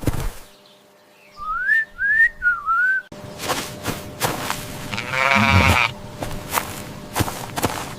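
Four short rising whistles, then a sudden change to scattered clicks and knocks. About five seconds in, a single wavering bleat from a farm animal sounds over them.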